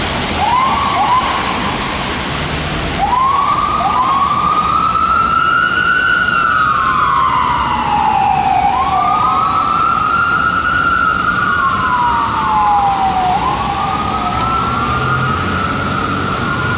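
Whelen electronic siren on a fire rescue engine (2016 Spartan Gladiator) responding code 3. Two quick rising yelps come near the start, then a slow wail that rises and falls about every five seconds, over low road and engine noise.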